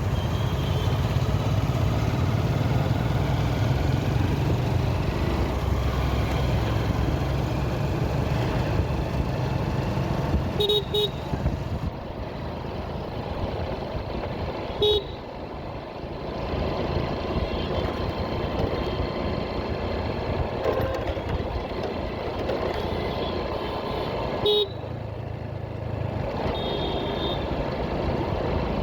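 Motorcycle running steadily on the road, with engine rumble and road noise, while a vehicle horn gives short beeps: a quick double beep, then single beeps about four and about fourteen seconds later, and a fainter one near the end.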